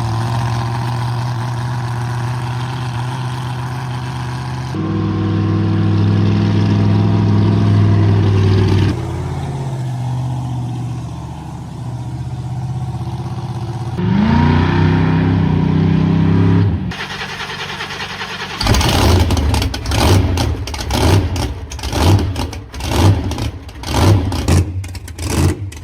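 Monster truck engines running in a string of short clips: a steady engine note, a rise in pitch as one revs about fourteen seconds in, then repeated sharp throttle blips over the last several seconds.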